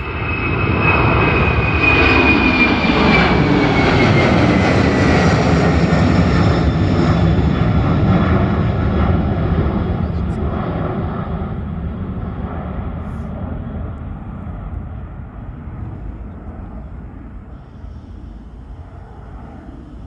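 Airplane passing low overhead: its engine noise swells quickly, stays loud for several seconds with a high whine sliding downward in pitch as it goes by, then fades slowly as it flies away.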